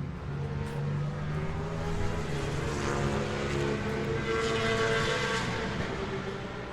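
Classic racing motorcycle engine running, its revs climbing from about two seconds in and easing back down near the end.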